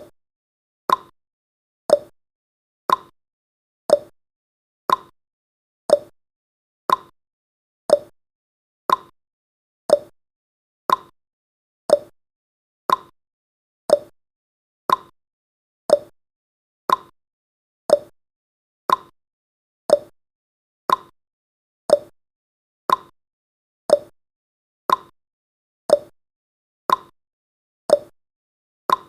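Clock-style tick-tock sound effect of a countdown timer, one sharp tick each second, alternating between a higher and a lower tick.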